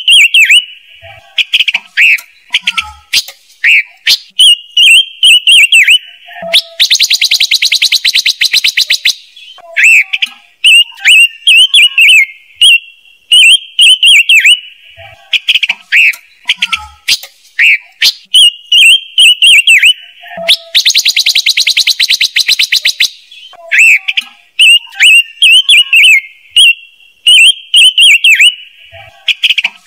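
Recorded lure call of the songbird sold as 'ngũ sắc': groups of sharp, quick chirps broken by a long, rapid rattling trill. The sequence repeats about every 14 seconds as a loop.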